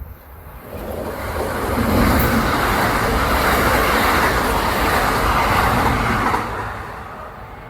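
Kintetsu electric train passing at speed: the running noise builds up, holds loud for about four seconds, then fades as it goes by.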